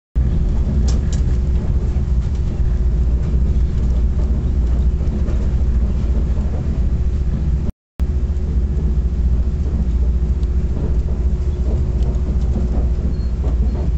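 Copper Canyon passenger train running along the track, heard from inside the coach: a loud, steady low rumble with a faint steady hum over it. The sound drops out for a moment about eight seconds in.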